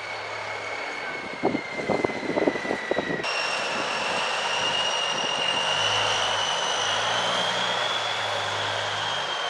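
Diesel semi-truck engines running with a steady high-pitched whine, which slides down and then jumps higher and slowly rises after about three seconds. A few sharp knocks and clatters come between about one and a half and three seconds in.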